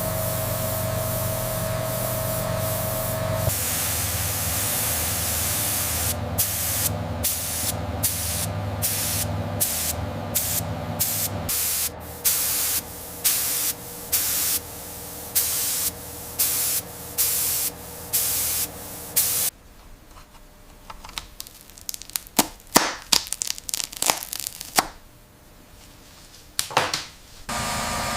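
Factory machinery humming steadily, then a run of short hissing spray bursts, about one every 0.7 seconds, that stop suddenly about two-thirds of the way through, followed by scattered sharp clicks and ticks.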